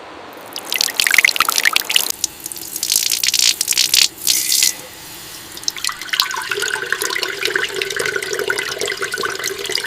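Water running and splashing in irregular gushes, as when a part is rinsed under a tap. A steady hum comes in about six seconds in and holds.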